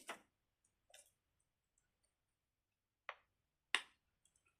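A few sharp clicks from a fidget toy being played with: two at the start, a faint one about a second in, and two more after three seconds.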